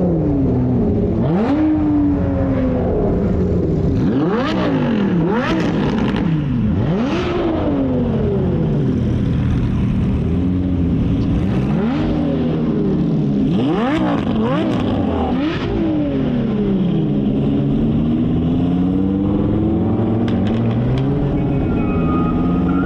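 Car engine revving hard, its pitch climbing and dropping again and again through gear changes.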